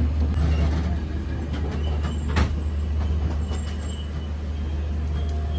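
Steady low rumble of a passenger train heard from inside the coach, with one sharp click about two seconds in.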